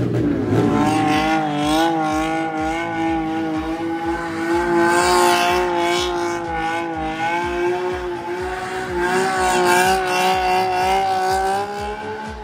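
Car engine held at high revs, wavering slightly, while the car spins donuts with its rear tyres spinning and squealing on the tarmac.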